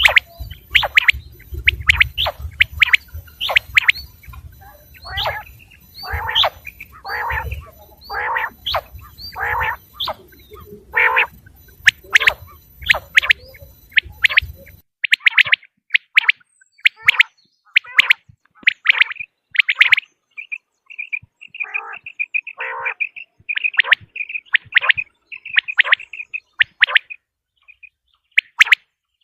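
Quail calling: a rapid series of short, sharp chirps, some sweeping down in pitch, over a low background rumble that cuts off abruptly about halfway through. In the second half the calls run into a fast, high trill broken by a few lower chirps.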